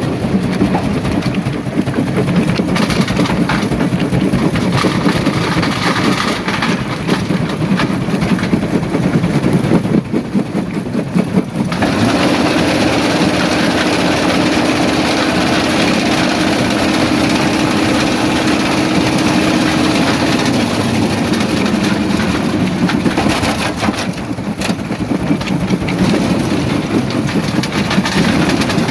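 Primary jaw crusher running, with rock clattering and grinding through it over a heavy engine drone. The clatter eases about twelve seconds in, leaving a steadier hum, and picks up again near the end.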